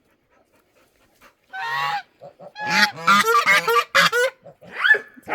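Geese honking: one honk about a second and a half in, then a quick run of overlapping honks, and another near the end.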